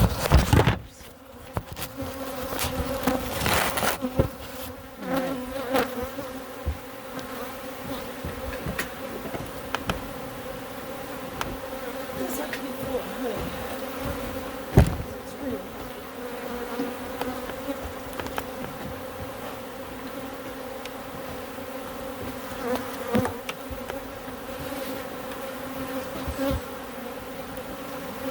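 Honeybee colony buzzing in an open hive, a steady hum, with scattered knocks and rustles as the hive and its feed are handled. The loudest is a sharp knock about fifteen seconds in.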